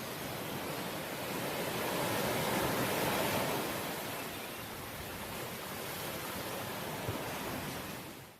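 Ocean waves washing ashore: a steady rush of surf that swells to a peak about three seconds in and then eases back, fading out at the very end.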